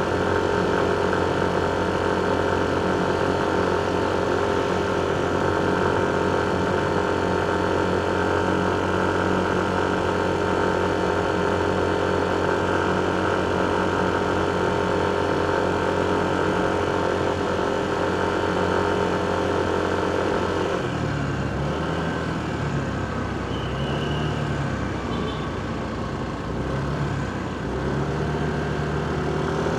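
Motorcycle engine running steadily while riding in traffic. About two-thirds of the way through, its even note drops away and gives way to a lower, wavering engine sound.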